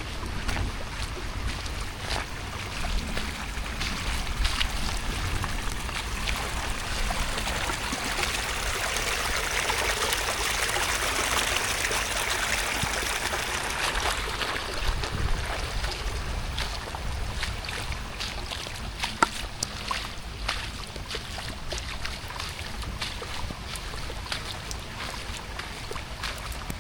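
Steady rain falling on the rice fields, swelling heavier about a third of the way in and easing after the middle, with scattered sharp drip-like taps over a low rumble.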